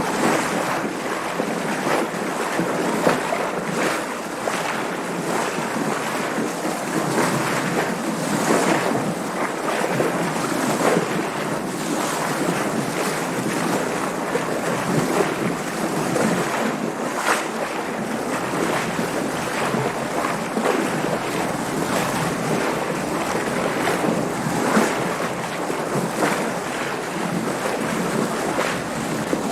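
Water splashing and sloshing against a sailboat's hull in waves, with wind, as a steady wash broken by frequent short splashes.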